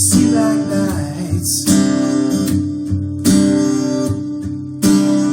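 Acoustic guitar strummed in a song's accompaniment between sung lines, a fresh chord struck about every second and a half and left to ring.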